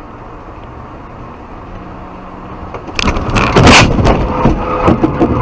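Steady road noise, then about three seconds in a sudden car crash: a loud impact followed by a string of further knocks and crunches.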